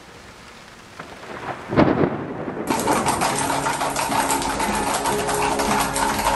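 Rain falling, rising from a faint hiss to a loud rumble of thunder about two seconds in, then dense rain patter. Soft instrumental music comes in under the rain in the second half.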